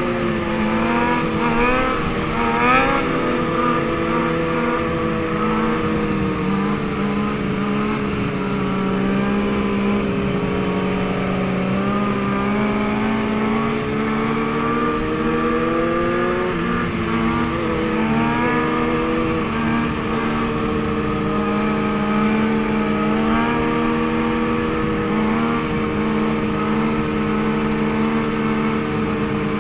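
Motorcycle engine running continuously at moderate revs, its pitch drifting slowly up and down, with a few short blips of the throttle in the first few seconds and again about two-thirds of the way through.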